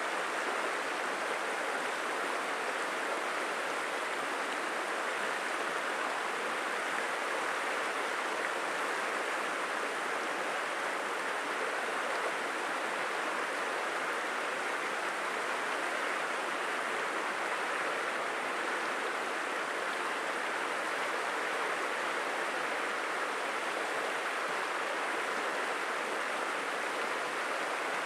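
Steady rush of a flowing stream: an even, unbroken water noise with no breaks or distinct splashes.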